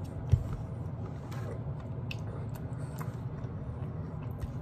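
A person chewing a mouthful of mac and cheese close to the microphone, with scattered wet mouth clicks and smacks. One sharp low thump about a third of a second in is the loudest sound.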